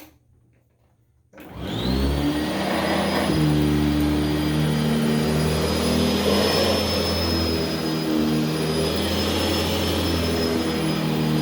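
Sanitaire upright vacuum cleaner switched on about a second and a half in. Its motor whine rises as it spins up, then it runs steadily, its level swelling slightly as it is pushed over the carpet.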